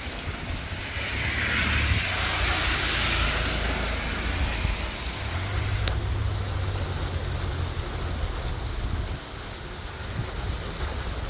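Heavy wind-driven rain pouring and splashing, with a surge of spray about a second in that eases off by four seconds. Wind gusts buffet the microphone with a low rumble.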